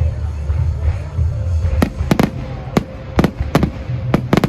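Fireworks going off: a string of sharp bangs and cracks at uneven intervals, starting about two seconds in, over a steady low rumble.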